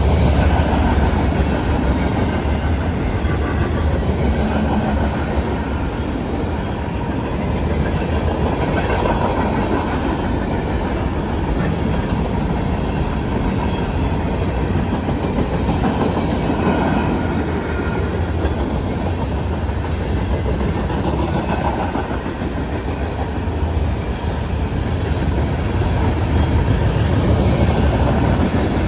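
Freight cars of a Norfolk Southern manifest train rolling past, their wheels clacking over the rail joints in a steady, loud rumble.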